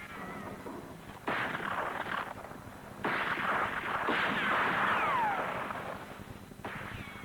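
Recorded sound effect of blasts: four sudden noisy bangs, each dying away over about a second, with a falling whistle over the third, like shells or fireworks coming down.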